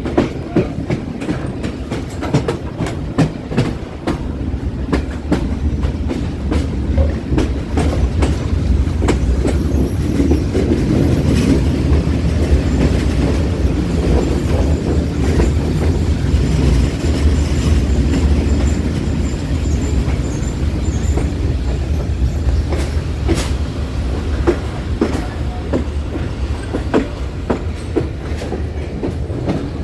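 Passenger train rolling into a station, its wheels clacking irregularly over rail joints and points above a steady low rumble, with a faint high wheel squeal through the middle.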